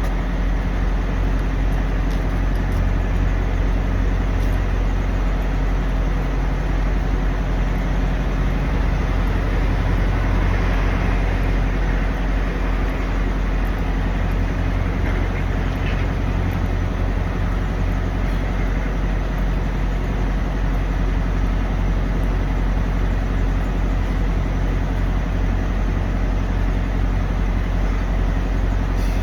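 Steady low rumble of idling semi-truck diesel engines, running evenly without change.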